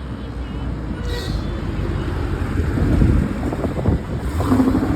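Ford Mustang GT's V8 exhaust rumbling, swelling to its loudest about three seconds in.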